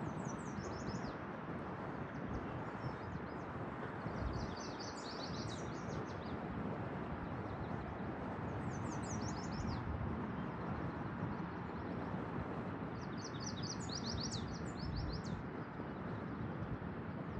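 A small songbird singing four short phrases of quick, high, downward-sweeping notes, a few seconds apart, over a steady background hiss of outdoor noise.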